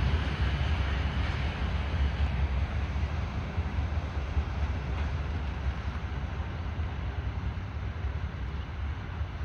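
Tail end of a freight train of open hopper cars rolling away on the rails, a steady rumble of wheels that slowly fades.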